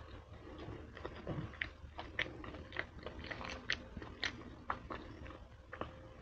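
Close-miked chewing of a mouthful of burger, with many irregular short wet clicks of the mouth and jaw.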